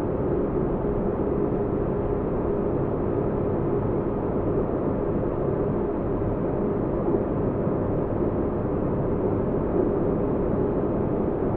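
Sci-fi spaceship interior ambience: a steady, deep rumbling drone of muffled noise with a faint low hum, unchanging throughout.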